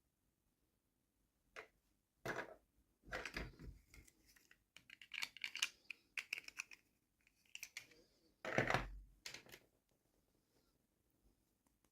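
Toy packaging being handled and opened by hand: irregular crinkling, scratching and clicking, in bunches of a second or so, with the loudest rustles about three and a half and eight and a half seconds in.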